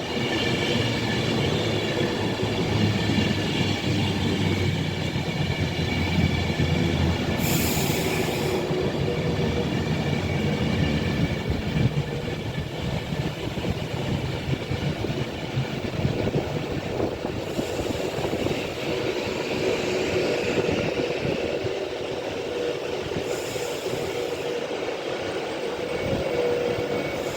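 Class 390 Pendolino electric train pulling into the platform and slowing, wheels rumbling on the rails with a steady high whine over it. The heavy rumble thins out about halfway through as the train comes to a stand.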